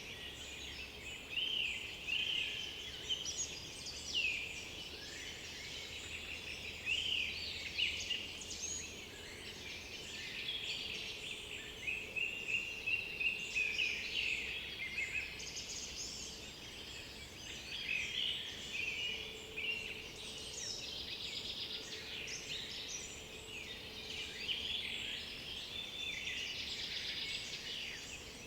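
A chorus of several songbirds singing at once in oak-beech forest, short overlapping phrases and chirps following one another without a break.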